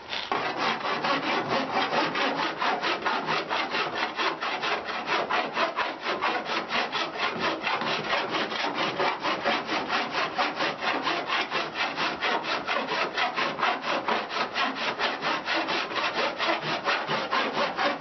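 Flat hand file rasping back and forth over hardened lead-free body solder on a welded steel patch-panel seam, in an even rhythm of about three to four strokes a second.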